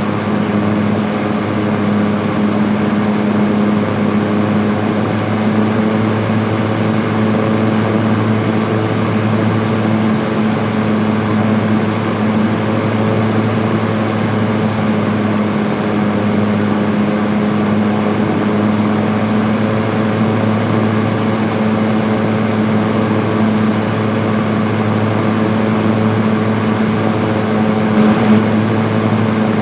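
Electric fan running on high speed: a steady motor hum under an even rush of air.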